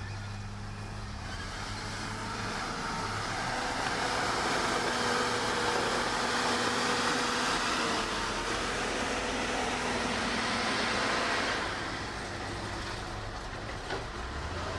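Heavy earthmoving machinery's engine running, growing louder over several seconds and then dropping back about three-quarters of the way through, with a short knock near the end.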